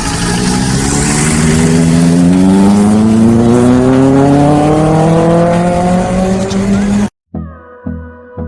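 Superbike engine running hard with its pitch climbing steadily as it accelerates. About seven seconds in it cuts off suddenly and background music with a steady beat takes over.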